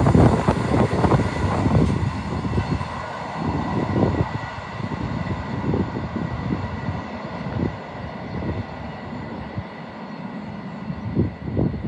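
Freight train of open box wagons receding down the main line, its wheel and rail noise loudest at first and fading over the first few seconds.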